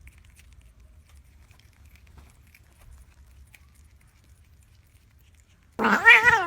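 Faint light tapping and rustling, then near the end a cat starts a loud, wavering yowl.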